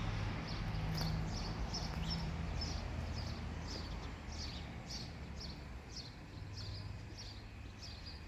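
A small bird repeating a short, high chirp about twice a second, with a faint low hum underneath.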